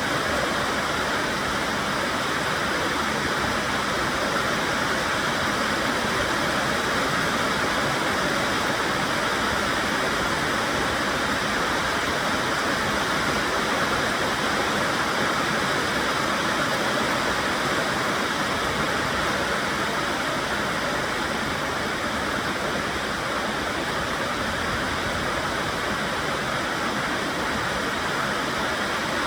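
Heavy rain falling in a steady downpour, an even hiss that holds at the same level throughout.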